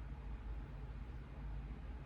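Quiet room tone: a steady low hum under faint hiss.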